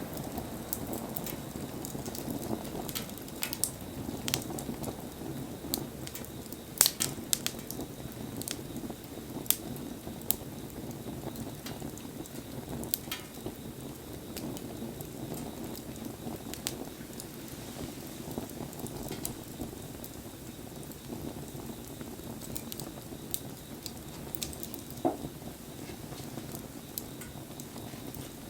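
Wood campfire burning in the rain: a steady low rushing with rain falling, broken by frequent sharp pops and ticks, and a short squeak near the end.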